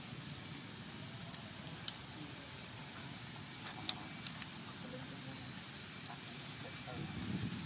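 A bird repeating a short, high chirp about every one and a half to two seconds over steady outdoor background noise, with two sharp clicks about two and four seconds in.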